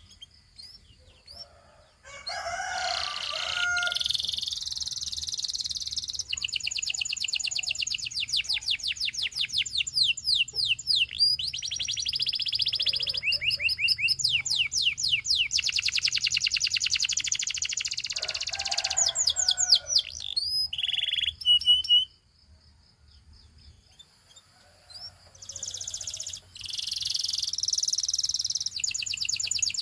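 Domestic canary singing: long runs of fast, rapidly repeated trill notes and rolls, broken by short chirps and brief pauses, with a silence of about two seconds about two-thirds of the way through before the song resumes.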